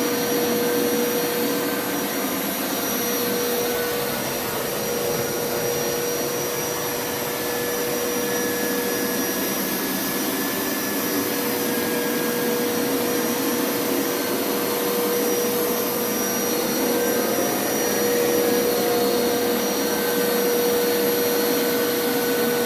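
Hoover Power Scrub Elite upright carpet washer running steadily over carpet, its suction motor giving a constant whine over a rushing noise.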